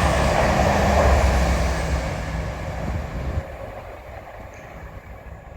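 Chiltern Railways Class 168 diesel multiple units passing through the station without stopping, loudest about a second in. The low engine note cuts off about three and a half seconds in as the train clears, leaving a fainter fading rumble.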